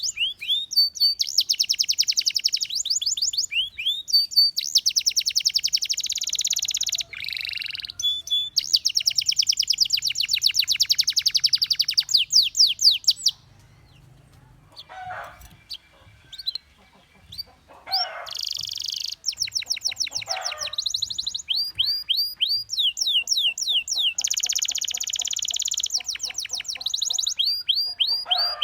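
Canary singing: long rolling trills of very rapid repeated high notes and fast gliding whistles. The song breaks off for a few seconds about halfway, then resumes.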